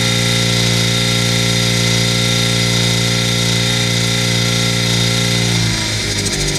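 999cc Rotrex-supercharged five-port A-series four-cylinder engine running at a steady speed on an engine dyno. Its revs drop away near the end.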